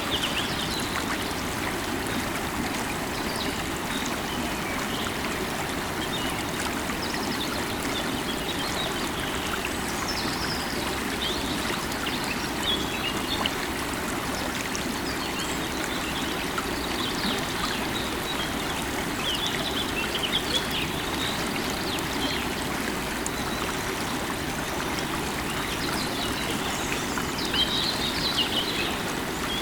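Running river water flowing steadily, with birds chirping now and then above it.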